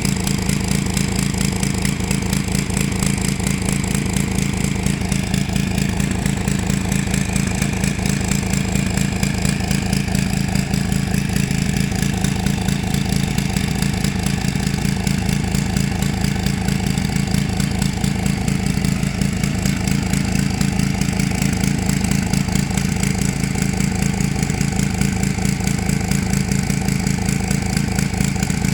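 Gas-engine pressure washer running steadily at a constant speed, its engine hum carrying a fast, even pulse under a hiss of spray.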